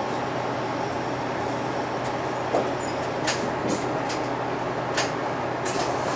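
Interior sound of a UD (Nissan Diesel) Space Runner RA city bus: its diesel engine running with a steady low hum, with a few short sharp hiss-like sounds a little past the middle.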